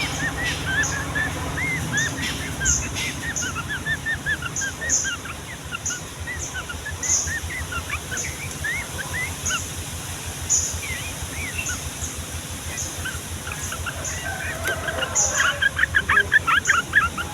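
Sooty-headed bulbul singing: a running chatter of short, bubbly chirps that quickens into a dense, rapid burst of notes near the end.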